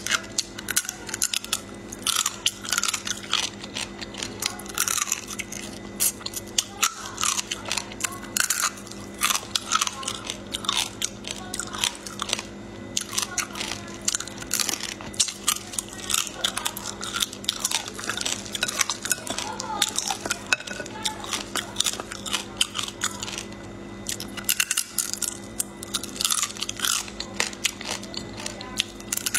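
Raw marinated flower crab claws bitten and chewed with the shell on, close to the microphone: a dense run of quick crunches and cracks, over a steady low hum.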